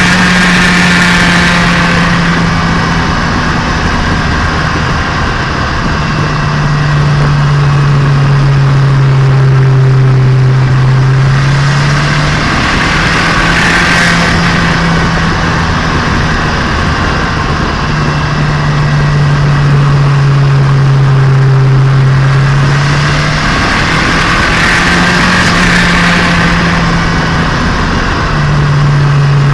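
Turbocharged Nissan Micra engine and exhaust heard onboard while driving, running in a freshly broken-in engine. The engine note holds steady, then drops to a lower steady pitch and back up again, switching about every five or six seconds throughout, over steady road and wind noise.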